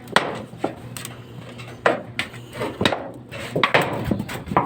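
A series of irregular sharp knocks and clatters, like hard objects being struck or handled.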